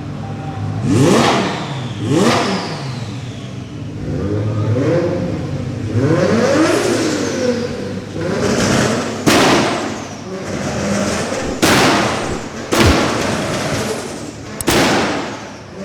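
A car engine revved repeatedly in short blips, its pitch rising and falling with each one. Several sharp cracks come in the second half.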